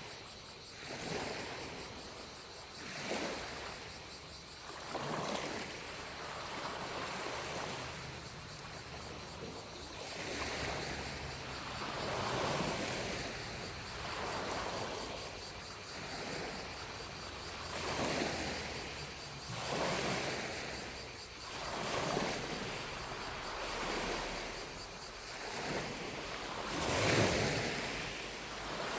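Small lake waves lapping on the shore, each wash swelling and fading every couple of seconds, with the largest near the end. Distant cicadas keep up a faint, steady, high drone behind them.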